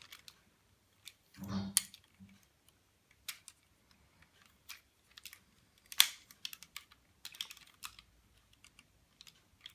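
Plastic parts of an Optimus Prime transforming toy clicking and rattling as they are twisted and folded into place, with irregular small clicks and one sharper snap about six seconds in.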